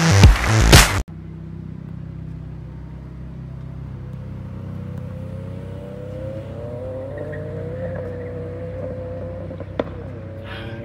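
Electronic dance music cuts off about a second in. Then a car engine runs in the background with a steady low drone, and a tone that rises slowly in pitch for several seconds and then holds, with a single sharp click near the end.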